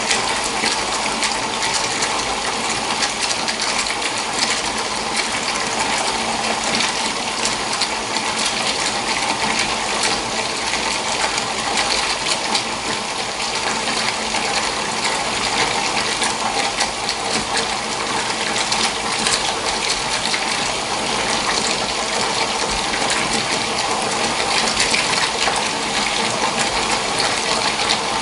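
Water gushing steadily from a tap into a filling bathtub, with a constant splashing.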